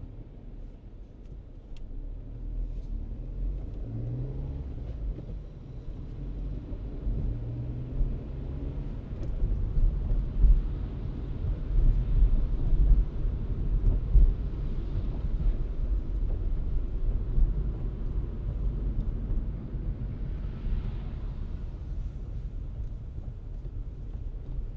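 Car driving: a steady low engine and road rumble, with the engine note rising as it accelerates a few seconds in and the rumble growing louder toward the middle.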